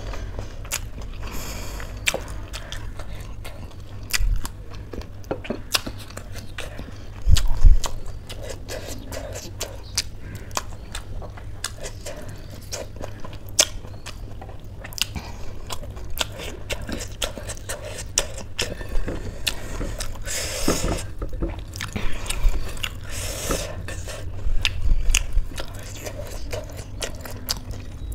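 A person chewing close to the microphone, with many small mouth clicks throughout. There is a low thump about four seconds in and a louder one about seven and a half seconds in.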